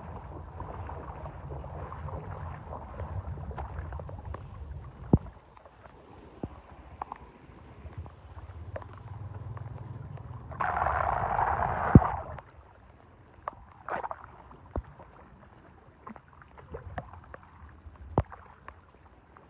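Water sloshing and gurgling, with a few sharp knocks and a brief splash about eleven seconds in.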